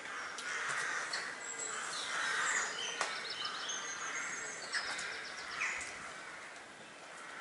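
Wild birds calling: several harsh, caw-like calls, with higher chirping from smaller birds in between, and a couple of sharp clicks.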